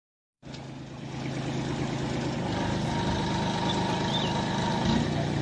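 Tractor engine running steadily, growing louder over the first couple of seconds and then holding even.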